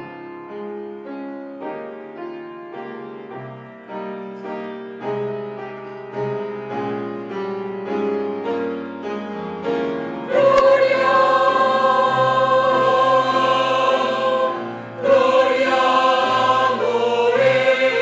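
Church choir cantata music: instrumental accompaniment with piano plays on its own at first, then about ten seconds in the choir comes in, singing loud sustained chords, breaking briefly and coming back in.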